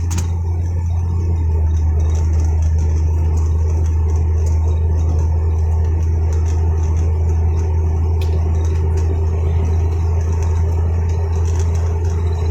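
Steady low drone of a vehicle running, heard from inside the cab.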